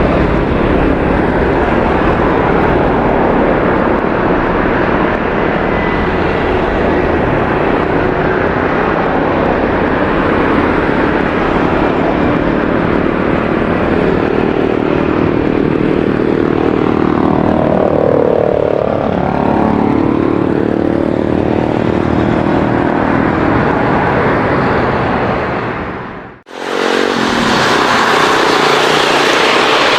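Boeing 767-300 freighter's twin jet engines at takeoff power, a loud steady rumble whose pitch sweeps as the jet passes about two-thirds of the way through. Near the end it cuts off abruptly and a different jet noise follows, a Boeing 777-300ER on its landing approach.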